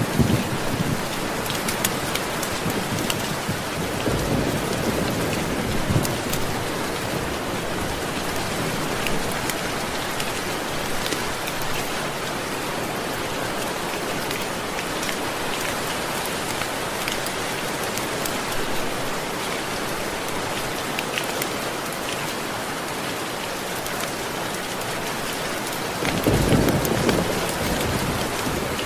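Steady heavy rain falling on surfaces, with a low rumble of thunder about four seconds in and another rolling in near the end.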